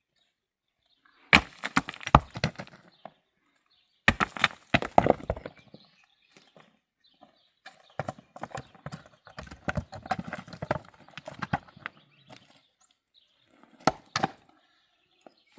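Bouts of quick, hard knocking and clattering, as of hard objects striking one another, with short pauses between and two sharp strikes near the end.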